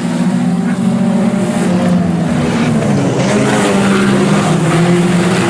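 A field of IMCA Sport Compact front-wheel-drive race cars racing together, several engines running hard at once and overlapping in a steady, loud drone.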